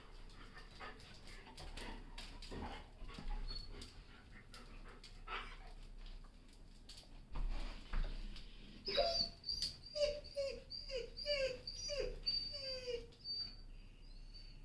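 German shepherd dog whimpering: a run of short whines, each falling in pitch, about two a second, in the second half, after a stretch of scattered light clicks and scuffs.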